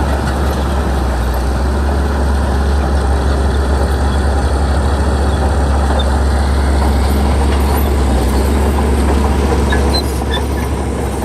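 Heavy diesel engine of earthmoving machinery running steadily, a loud low drone, easing off slightly about ten seconds in.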